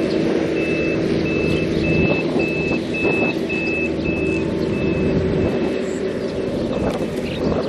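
A vehicle's reversing alarm beeping at one steady high pitch, about two beeps a second, stopping near the end, over a loud engine rumble.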